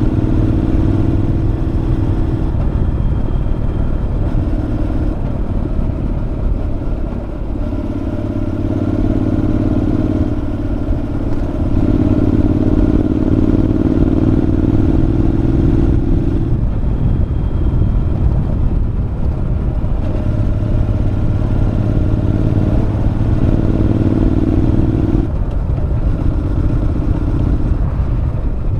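Honda NC750X parallel-twin engine with a Moriwaki aftermarket muffler, running loud on the move. Its note holds for a few seconds and then shifts in pitch, again and again, as the throttle and gears change.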